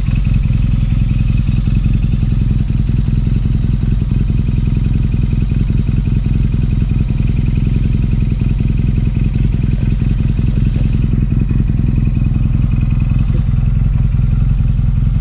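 BMW R nineT's 1170 cc air/oil-cooled boxer twin exhaust running steadily at constant revs, with its exhaust sound flap removed and a Booster Plug fitted.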